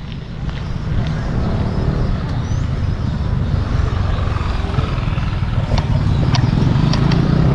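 Low, steady rumble of wind and road noise on the microphone of a moving bike, growing slightly louder, with a few sharp clicks near the end.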